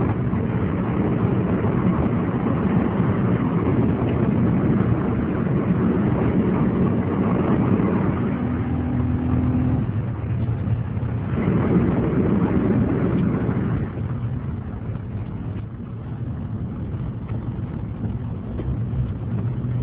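Audi 100 quattro's 2.8 V6 engine running under way, with road noise heard from inside the cabin. It eases off and goes quieter about fourteen seconds in, and the revs climb again right at the end.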